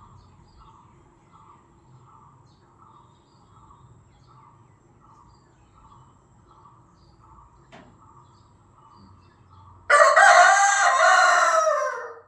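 Rooster crowing once near the end: one loud cock-a-doodle-doo lasting about two seconds, dropping in pitch as it ends. Before it, only a faint regular chirping pulse, about two a second, in the background.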